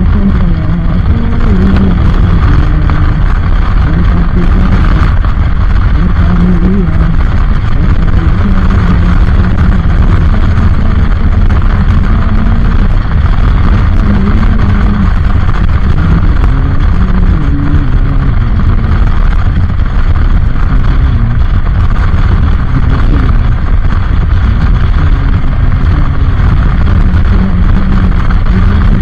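Steady, loud rumble of a vehicle in motion, heavy in the low end, with a wavering pitch over it and no clear breaks.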